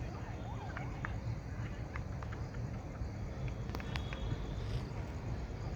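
A train running through on the rails: a steady low rumble with irregular clacks and knocks of wheels over rail joints. A warbling, siren-like tone dies away in the first second.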